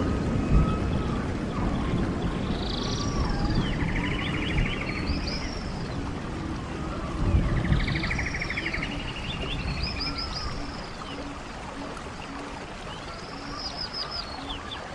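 A songbird singing the same phrase about every five seconds, each a quick trill and a few falling whistles, over the steady rush of a running stream.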